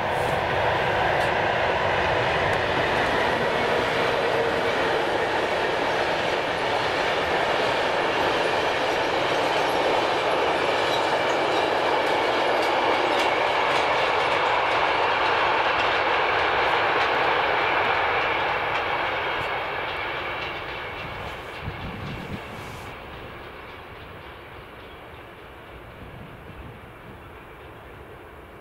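A train passing on the line: a loud, steady rush of wheels on rails with a few clicks, lasting about eighteen seconds, then fading away as it moves off.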